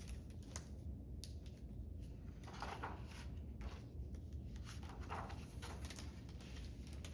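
Faint rustling and scattered light clicks of a picture book being picked up and opened, over a low steady hum.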